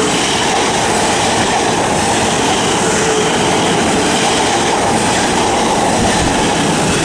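Class 450 Desiro electric multiple unit passing through the station without stopping: a steady, loud rush of wheels on rail with a faint whine.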